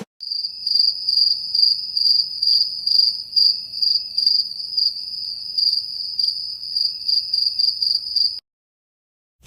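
Crickets chirping: a stock crickets sound effect, a high steady trill pulsing about twice a second, that stops abruptly near the end and leaves dead silence. This is the effect commonly used to mark an awkward silence.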